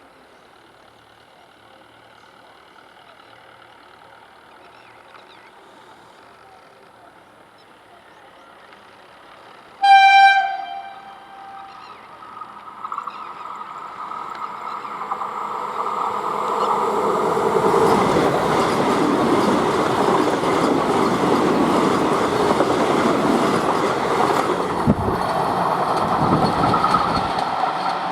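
Vande Bharat Express electric multiple-unit train sounding one short horn blast about ten seconds in, then drawing closer and passing with a rush of wheel and rolling noise that builds over several seconds and stays loud to the end.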